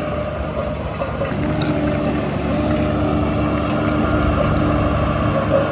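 Heavy diesel engine of earthmoving equipment running steadily, growing a little louder after about a second as it takes more load.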